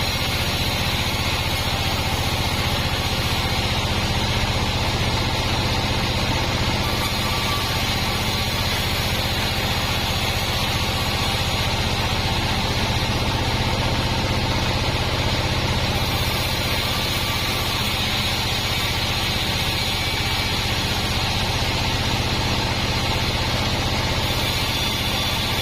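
Band sawmill machinery running with an unbroken steady hum.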